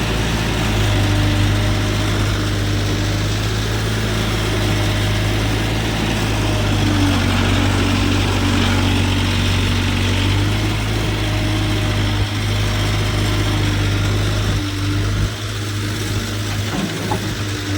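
Diesel farm engine idling steadily, a low even engine note, with a little unevenness in the last few seconds.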